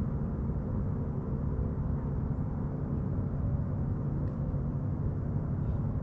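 A motor engine running with a steady low drone and a faint pitched hum above it.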